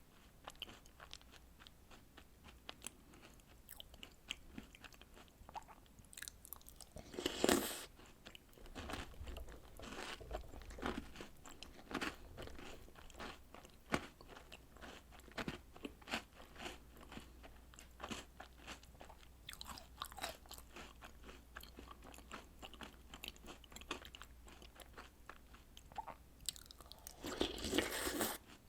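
Close-miked eating of chocolate snacks and cereal soaked in milk: a run of small crisp crunches and chewing. Two louder, longer noisy bursts stand out, about seven seconds in and near the end.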